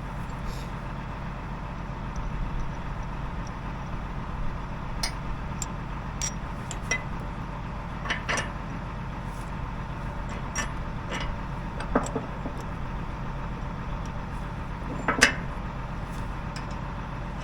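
Hand tools clinking and knocking on metal bolts and plates, a scattering of sharp strikes with the loudest about fifteen seconds in, over a steady low engine hum.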